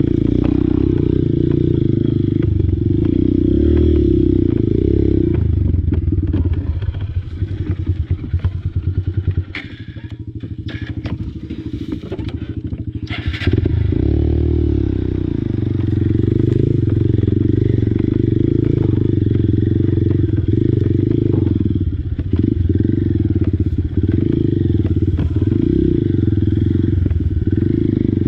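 Small Honda single-cylinder four-stroke dirt bike engine running under throttle. About six seconds in it eases off to a lower, uneven run with a few sharp clicks, then picks up again to full pull at about a third of the way through.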